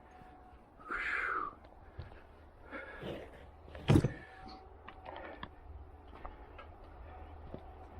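Hand work on car suspension parts: scattered small clicks and taps, a brief scraping or hissing rush about a second in, and one sharp knock just before four seconds in, the loudest sound.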